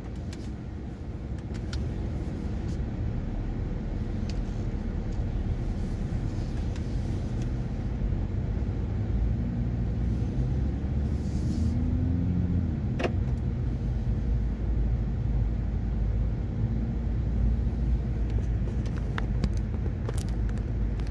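Cabin sound of a BMW M240i's turbocharged 3.0-litre inline-six idling and pulling away at low speed, a steady low rumble.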